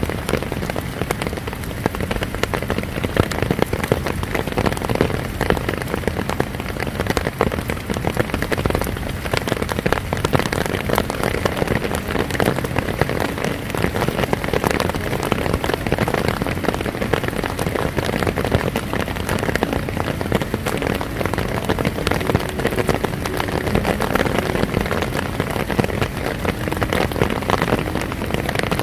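Heavy rain pouring steadily, countless drops striking a hard surface.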